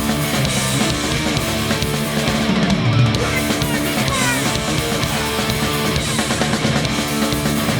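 Hardcore punk band playing live: electric guitars, bass and drum kit in an instrumental stretch without vocals.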